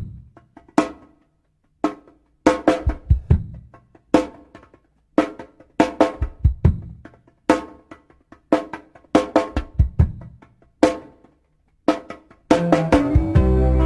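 Drum kit playing a stop-start break: short clusters of snare, bass-drum and tom hits with brief silences between them. The full band comes back in about a second and a half before the end.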